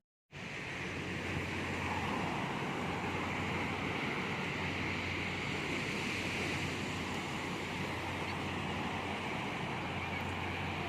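Sea surf washing steadily, with wind buffeting the microphone; the sound starts abruptly just after the start.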